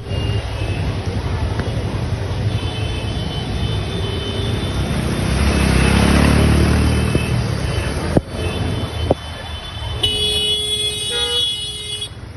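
Street traffic in heavy rain: a steady rush of rain and road noise, with a vehicle passing loudest around the middle. A vehicle horn honks for about two seconds near the end.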